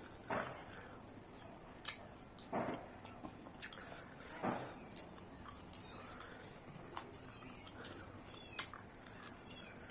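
Eating sounds: a person chewing chicken and rice close to the microphone. Three short, louder wet mouth noises come about two seconds apart in the first half, with a few sharp clicks scattered through.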